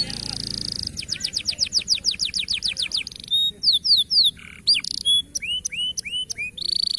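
Canary singing a fast, varied song, of the kind used as a training recording to teach other canaries. It opens with a buzzing rolled trill, then a quick run of rapid downward-sweeping notes, then assorted chirps and curling whistles.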